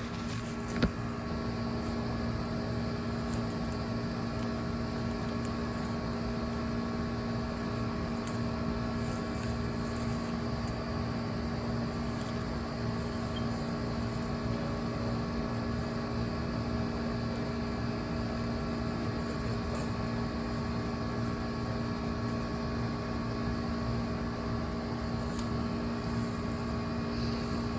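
Steady mechanical hum of a motor running at constant speed, holding one unchanging pitch, with a single knock about a second in.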